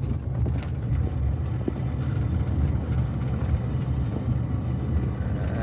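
A car running and driving, a steady low rumble of engine and road noise.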